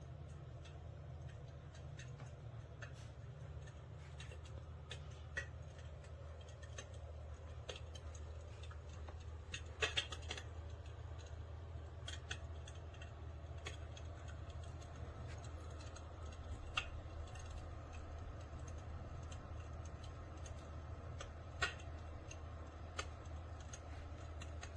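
Sparse, irregular crackling pops and clicks, the simulated log-fire crackle of an electric fireplace insert, over a low steady hum. The loudest cluster of pops comes about ten seconds in, with another sharp pop later.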